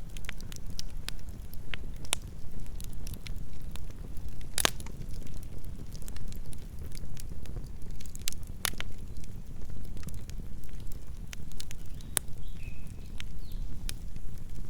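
Campfire burning: wood crackling with scattered sharp pops over a steady low rumble of flames.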